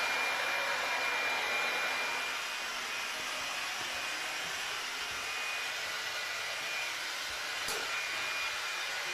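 Leister Sonara S1 hot air hand tool running: its fan blowing a steady rushing hiss of hot air with a faint high whine. A single light click sounds about three-quarters of the way through.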